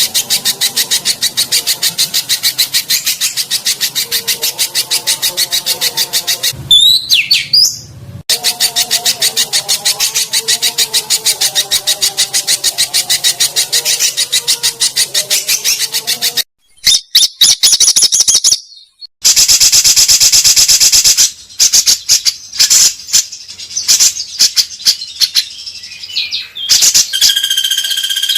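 Recorded songbird song: a very fast, evenly repeated high chirping, broken by one sweeping call about seven seconds in. After about sixteen seconds it cuts abruptly to other birds' dense rapid trills, and near the end to a song with steady whistled notes.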